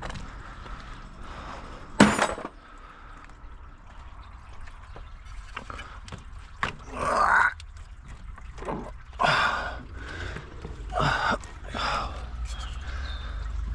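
Hand work on a stuck car part: one sharp knock about two seconds in, then several short scraping, rasping sounds spaced a second or two apart.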